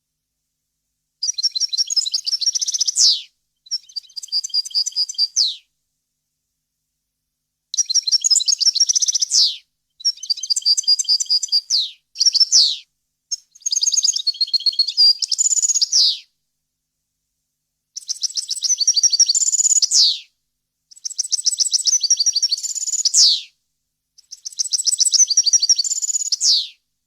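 European goldfinch singing, a series of rapid twittering, trilling phrases of one to two seconds each, most ending in a quick falling sweep, separated by short pauses.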